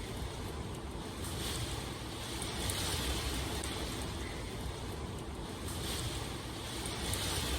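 Steady rain, a rushing hiss that swells and eases every few seconds.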